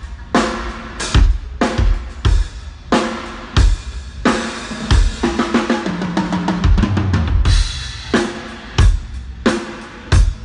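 Acoustic drum kit played in a steady beat of bass drum and snare hits, with a quick fill of rapid strokes on lower-pitched drums about halfway through.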